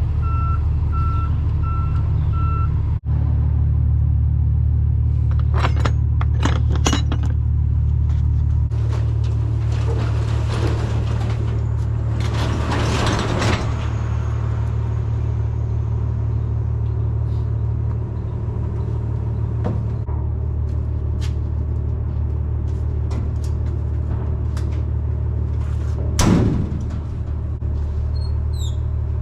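Box truck's engine running with a steady low drone; a reversing beeper sounds in even beeps for the first few seconds and then stops. A hiss of about two seconds comes near the middle, and a sharp knock near the end.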